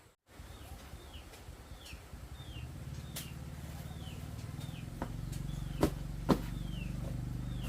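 A bird calling over and over with short falling chirps, while a low motor hum grows steadily louder, with a few sharp clicks partway through.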